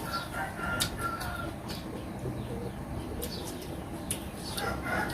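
Faint bird calls in the background, a short high tone near the start and again near the end, with a few sharp clicks.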